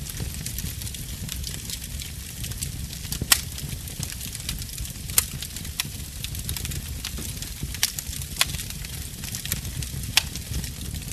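Wood fire in a fireplace crackling steadily over a low rumble, with a handful of sharper, louder pops, the loudest about three seconds in.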